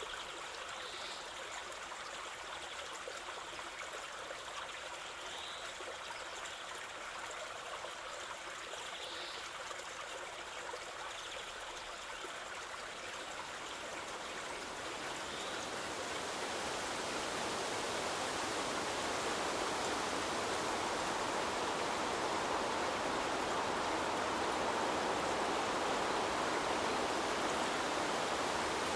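River water flowing with a steady rushing sound that swells louder about halfway through. A few faint, short bird chirps come over it in the first half.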